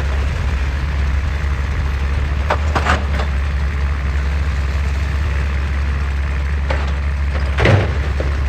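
Excavator's diesel engine running steadily with a deep drone, with a few short knocks about two and a half to three seconds in and a louder one near the end.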